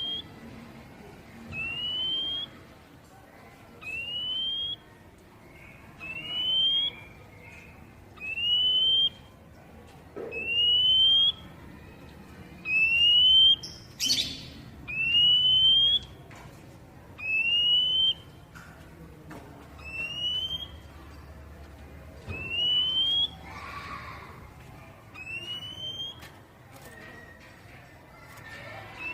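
Oriental magpie-robin (kacer) giving its basic 'poci' call: one rising whistled note, repeated steadily about every two seconds, with faint high chips after each. One short harsh rasp comes about halfway through.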